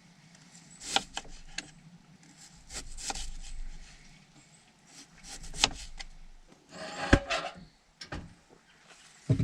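Handling noise: a run of separate knocks and clicks with two stretches of rustling or scraping. The loudest knock comes about seven seconds in.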